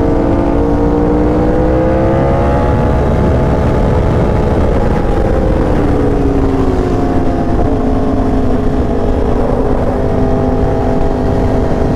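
Motorcycle engine running at speed with heavy wind rush. The engine note climbs slightly over the first few seconds, drops about halfway through, then holds steady.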